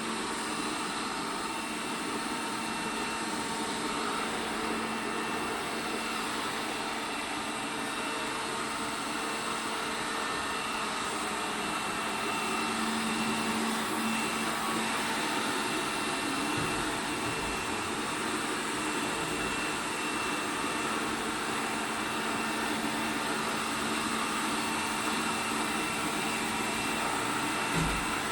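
ELARI SmartBot Lite SBT-002A robot vacuum cleaner running: a steady motor and suction noise with a constant hum, and a few soft low knocks past the middle and just before the end.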